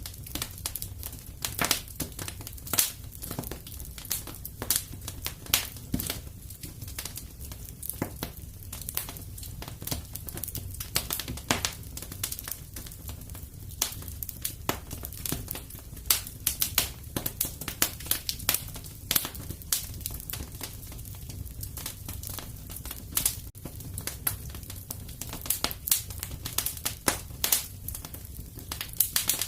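Wood fire in a fireplace crackling and popping: irregular sharp snaps, some much louder than others, over a steady low sound of the burning fire.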